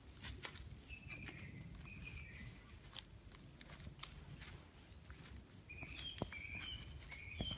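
Small birds chirping in short, high, repeated chirps, a few around one to two seconds in and a livelier run from about six seconds in, over scattered clicks and rustles.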